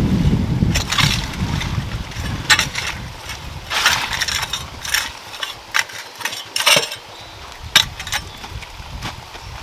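Irregular knocks and scrapes of hard objects, about a dozen spread unevenly, over a low rumble that fades away in the first two seconds.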